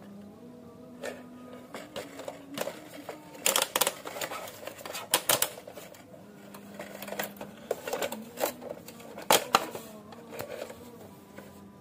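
Irregular clicks, knocks and rustles of hard objects being handled, with a few louder clacks around a third of the way in and again near the end.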